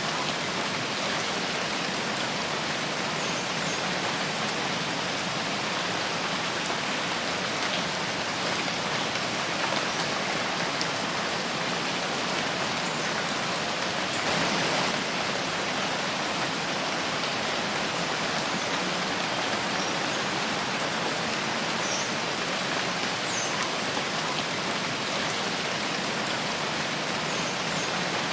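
Steady rain falling in a forest, an even hiss of drops on leaves and ground, with a brief swell about halfway through.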